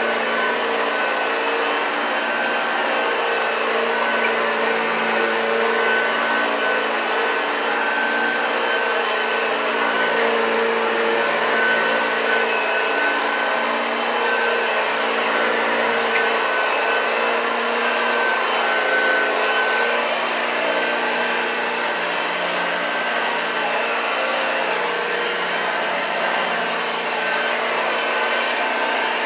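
1986 Hoover Junior U1206 upright vacuum cleaner running steadily, its motor giving a constant whine over the rush of air.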